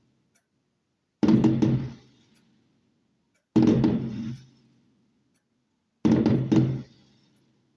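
Three loud firework bangs about two and a half seconds apart, each hitting sharply and dying away over about a second.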